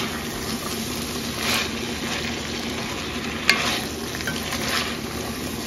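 Onion, celery, mixed vegetables and canned chicken sizzling in butter in a pan as they heat through and are stirred, with a sharp click about three and a half seconds in.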